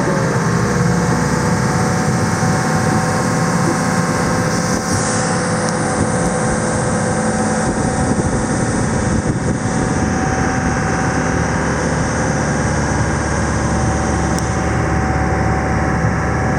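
Motorboat engine running steadily under way, its even engine tone over a dense rushing noise of wind and water.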